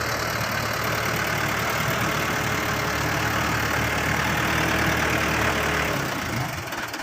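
Mitsubishi Canter dump truck's diesel engine running steadily as the tipper bed is brought down after unloading. The steady hum drops away about six seconds in, leaving the engine idling more quietly.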